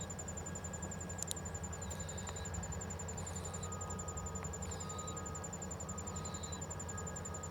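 A steady, high, rapidly pulsing insect trill, cricket-like, over a low steady hum, with a few faint short chirps about every second and a half and a single click just over a second in.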